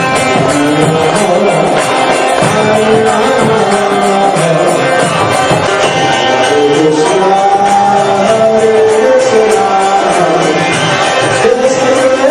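Devotional kirtan: group singing of a chant over hand drums and jingling percussion, loud and continuous.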